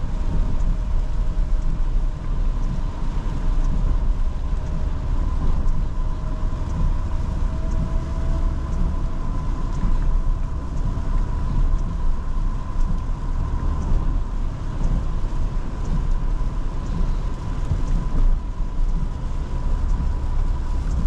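Road and tyre noise inside the cab of a 2023 Toyota Tundra driving on a wet road: a steady low rumble under a hiss, with a faint steady high whine.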